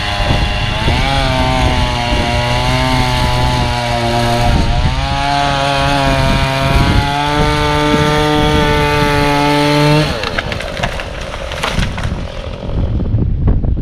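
Small two-stroke chainsaw engine running at high speed, its pitch dipping briefly twice, then cutting off suddenly about ten seconds in. Wind buffets the microphone after it stops.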